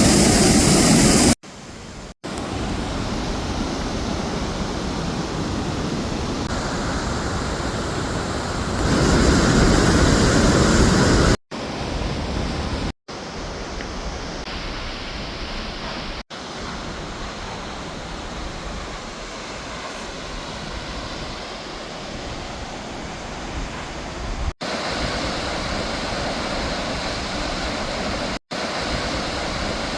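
Steady rushing roar of a large waterfall, broken by several abrupt cuts where it drops out and comes back louder or softer.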